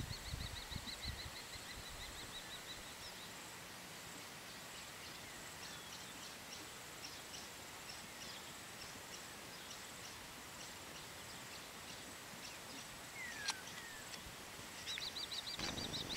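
Small birds calling in the background over a steady outdoor hiss. A fast high trill of repeated notes is heard for the first few seconds and again near the end, with scattered short chirps in between. There is one sharp click about thirteen seconds in, and a low rumble at the start and again near the end.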